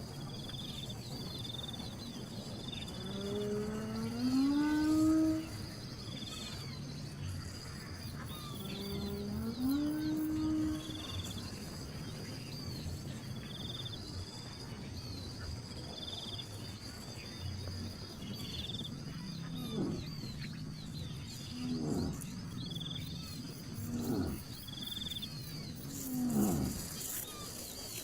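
Several slow, rising, low-pitched animal calls, and later a few short falling calls, over a steady chorus of high insect chirping.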